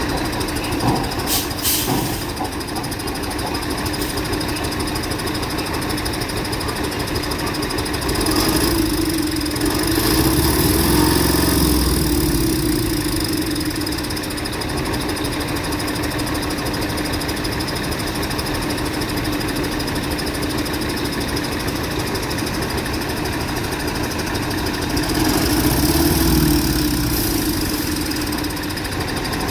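A vehicle engine running steadily with a constant hum, swelling louder twice: once about a third of the way in and once near the end.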